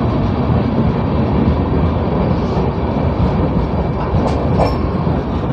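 Passenger train running on the rails: a steady rumble of wheels and coaches, with a brief high squeak about four and a half seconds in.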